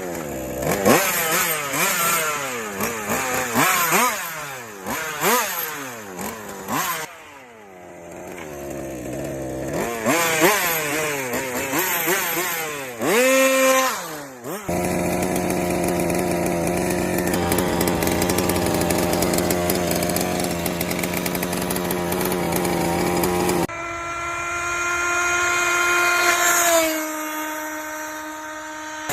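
Two-stroke engine of a homemade mini car being revved over and over, its pitch rising and falling, then held at a steady speed for several seconds, stepping down in pitch near the end.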